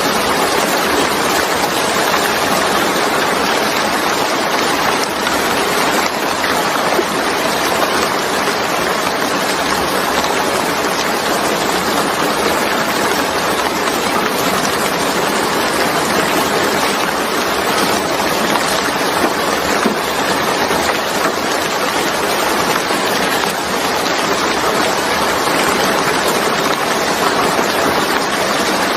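Steady, dense rainfall: a continuous even hiss of rain with no single drops or gaps standing out.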